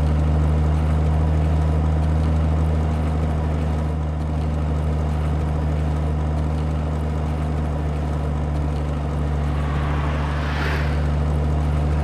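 Steady low drone of a heavy truck's engine running close behind a bicycle. Two brief whooshes swell and fade near the end.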